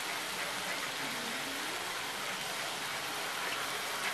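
Chopped vegetables and egg pieces sizzling steadily in a frying pan on a gas stove, with soy sauce freshly poured onto the hot mixture.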